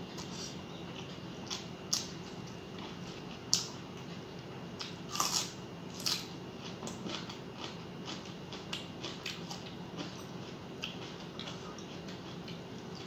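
Close-up eating sounds of a person chewing mouthfuls of rice and fish curry eaten by hand: scattered short wet mouth clicks and smacks, a few louder than the rest, over a faint steady hum.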